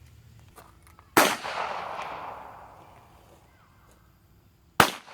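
Two gunshots about three and a half seconds apart, each a sharp bang followed by a long echo trailing away.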